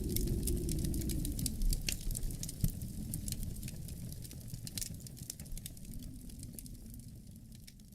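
Wood fire crackling in a fireplace, with many sharp irregular pops over a low wind rumble; the whole sound fades out steadily toward the end.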